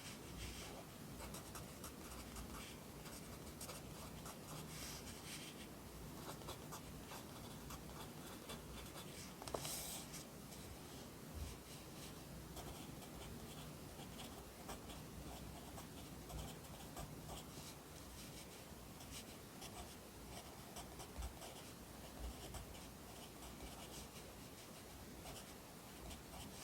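Pencil writing Korean characters by hand on paper: a steady run of short, faint scratching strokes, with one sharper stroke about nine and a half seconds in.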